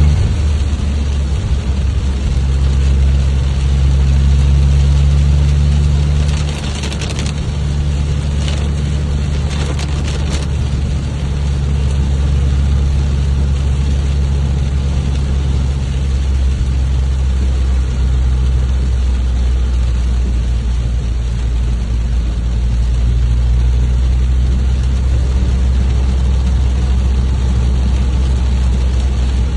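Steady rain hiss over a loud, low, steady rumble that dominates the sound, with a few brief crackles or patters about seven to ten seconds in.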